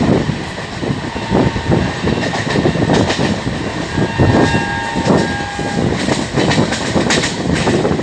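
Express train running at speed, heard from an open coach doorway: wheels clattering over the rail joints in quick repeated clicks, over a steady rush of running and wind noise.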